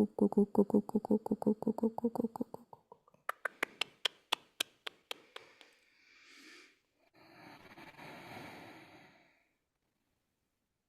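Light-language vocalising without words. A fast pulsing voiced trill fades out over the first couple of seconds. It is followed by a run of sharp tongue clicks that slow down, and then two soft breathy exhales.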